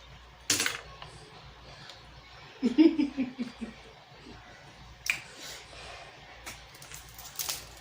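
Snow crab leg shells being cracked and snapped apart by hand: a few sharp cracks, about half a second in, around five seconds and again near the end. A short hum-like vocal sound comes about three seconds in.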